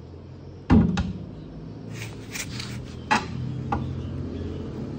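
Workshop handling noise as parts are set down: a loud knock under a second in, a second knock right after, then rustling and a few lighter clicks over a low steady hum.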